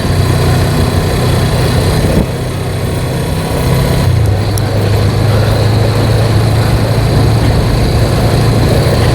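Suzuki GS motorcycle engine running steadily under way, with wind and road noise over it; the engine note shifts slightly about four seconds in.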